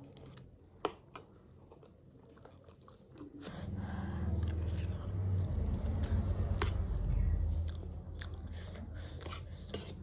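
Close-miked chewing and biting of crunchy snack food, with scattered sharp crunches. A louder low rumble swells up a few seconds in and dies down again near the end.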